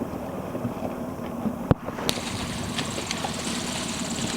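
A motorboat engine running steadily at low speed, with wind and water noise. There is a single sharp knock a little under two seconds in.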